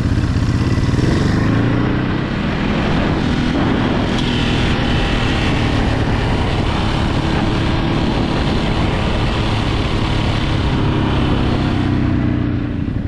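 Ducati Hypermotard motorcycle engine running steadily, with a low, even engine note and road noise.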